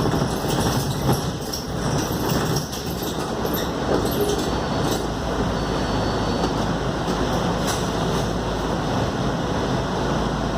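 Scania K280UD double-decker bus heard from inside: its five-cylinder diesel engine running, with a steady rumble and road noise and a few short clicks and rattles.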